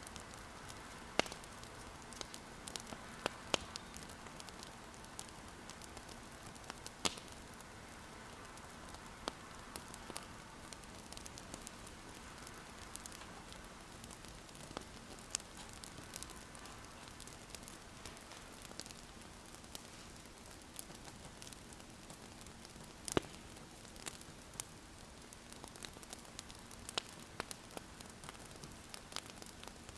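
Wood fire crackling: irregular sharp pops and snaps, a few louder ones, over a steady soft hiss.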